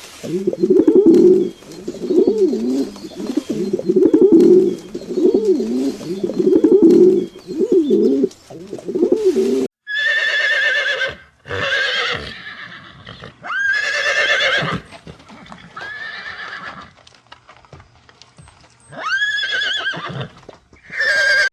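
Pigeons or doves cooing, a low coo repeated about once a second. After an abrupt cut near the middle comes a run of about six shrill, drawn-out animal calls, each about a second long and bending upward in pitch.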